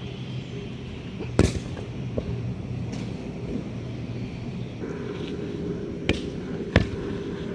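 A volleyball being struck by hands during a rally: three sharp slaps, one about a second and a half in and two close together near the end. A steady low hum runs underneath.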